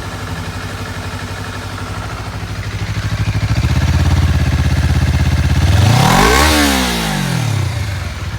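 2019 Honda CBR250RR's parallel-twin engine through its stock exhaust, idling and then revved in Comfort riding mode. It rises slightly from about three seconds in, then gives one quick rev that climbs sharply, peaks about six and a half seconds in, and drops back to idle.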